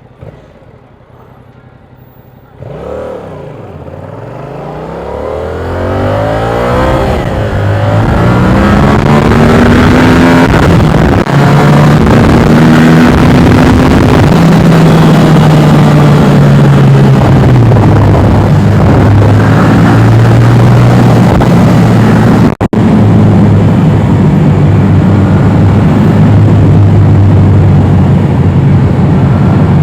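Yamaha R7's parallel-twin engine pulling away and accelerating hard, its pitch climbing over several seconds, then running loud at high revs with small rises and falls. The sound cuts out for a moment about two-thirds of the way through.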